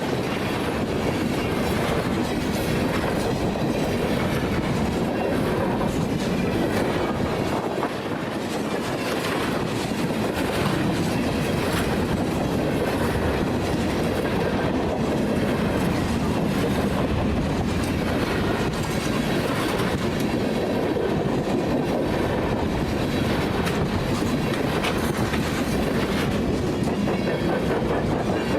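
Freight train cars rolling past, steel wheels clacking steadily over the rail joints.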